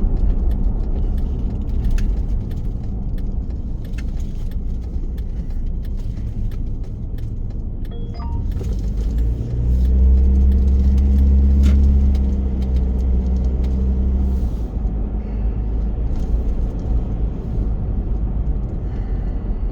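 Road and engine noise inside a moving car: a steady low rumble with scattered light ticks and rattles. About halfway through, a steady engine drone rises for around five seconds, then falls back.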